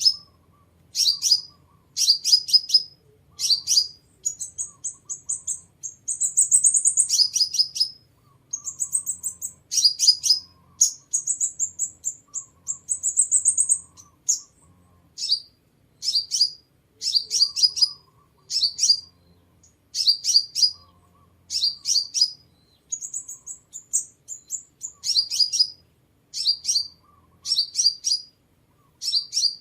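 Sunbird calling: bursts of rapid, high, thin chirps about every second, broken by a few longer high trills.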